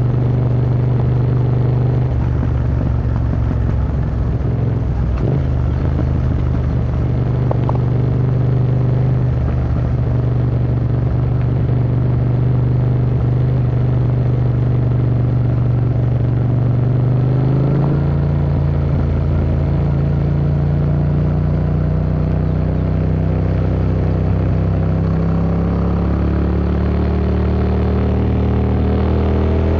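Yamaha MT-07's 689 cc parallel-twin engine, heard through an Akrapovic Racing Line exhaust, running at steady revs under way. About eighteen seconds in the note changes and then climbs slowly, and right at the end it rises quickly as the bike accelerates.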